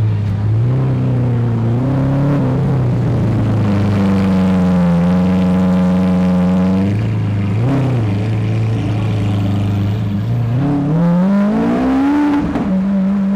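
Lamborghini engine idling and being revved. The revs are held higher for a few seconds, fall back to idle, then climb again near the end and drop off sharply.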